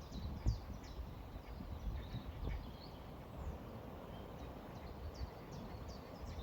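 Small birds chirping in short, quick high notes, sparser in the middle, over an uneven low rumble.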